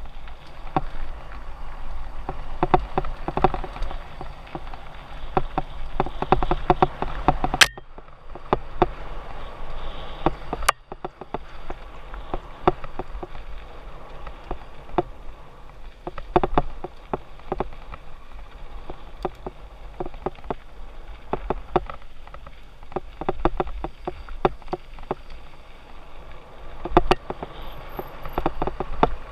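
Mountain bike rolling fast down a dirt trail: a continuous clatter of chain, frame and tyres over rough ground, thick with quick clicks and rattles, with two sharp knocks, the first about eight seconds in.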